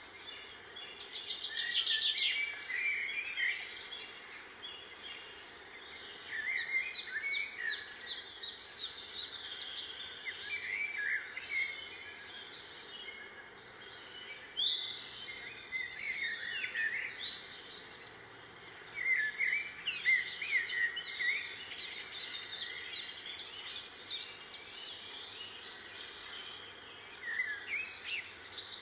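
Birds chirping and trilling in repeated bouts of fast, high notes over a steady outdoor hiss.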